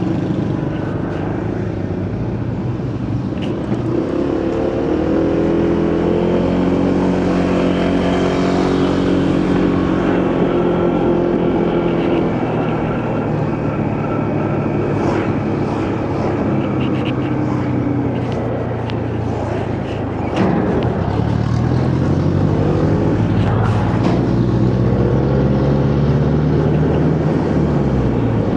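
Motorcycle ride road ambience: engine running with its pitch rising and falling twice as speed changes, over steady wind and road noise.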